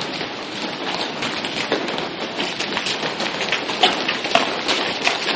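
Heavy rain falling steadily, with many sharp, irregular ticks of drops striking a hard surface.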